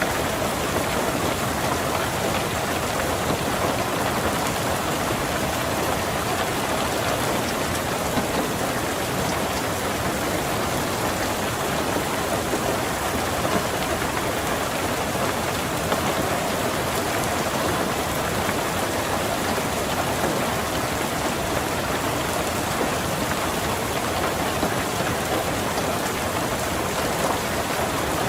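Steady heavy rain pattering on a car's roof and windows, with scattered individual drop ticks.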